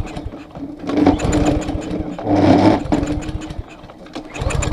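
Small gasoline engine with its air cleaner off, running on a few shots of starting fluid with rapid firing pulses. It is loudest in the middle, sags about three-quarters of the way through, then picks up again. Its running on starting fluid shows spark and compression are fine, pointing to a fuel problem, a varnished carburetor from fuel left sitting over the winter.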